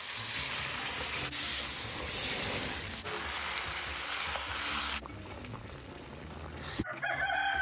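Peeled green bananas (matoke) sizzling in a pan over a wood fire while a wooden spatula stirs them, the hiss changing abruptly several times and growing quieter partway through. Near the end a rooster starts crowing.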